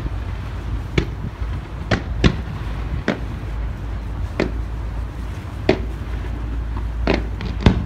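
Distant fireworks going off, about ten sharp separate bangs at roughly one a second, over a steady low rumble.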